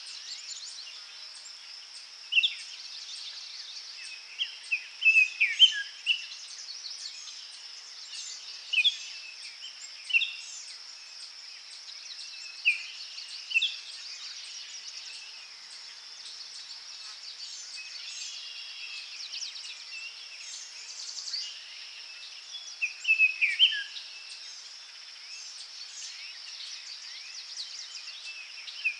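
Forest birds calling and singing in scattered bursts of bright chirps. Under them runs a steady high insect drone.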